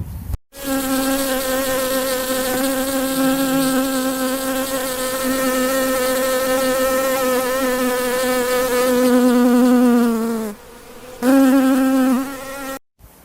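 An insect buzzing in one steady drone for about ten seconds, its pitch sagging slightly just before it stops; after a short pause it buzzes again for about a second.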